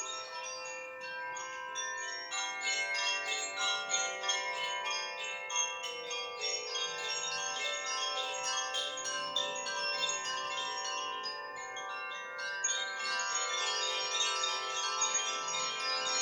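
Koshi chimes (bamboo resonators with tuned silver rods struck by an inner pendulum) tinkling continuously in many overlapping ringing tones. The strikes thin out for a moment about twelve seconds in, then come thick again.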